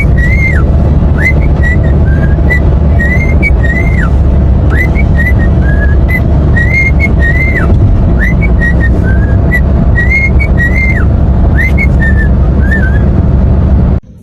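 Many short whistled notes around one pitch, each rising or falling, strung into repeating phrases over a loud steady low rumble. Both stop at once near the end.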